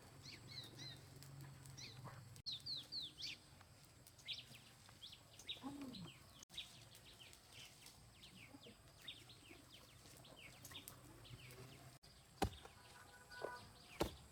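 Birds chirping: many short, high chirps scattered irregularly, with a couple of sharp knocks near the end.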